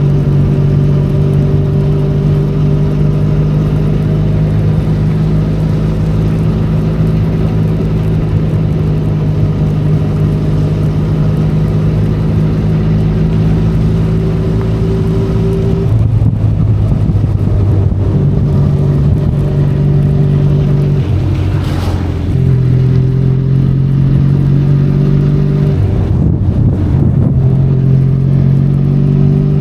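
Benelli Leoncino 500 Trail's parallel-twin engine running under way, heard from the rider's position. The engine note holds steady for the first half, then shifts several times in the second half, with a brief click about 22 seconds in.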